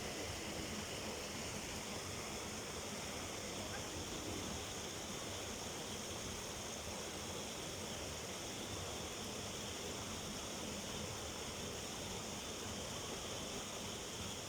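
Hot-spring river flowing: a steady, even rush of water with no breaks.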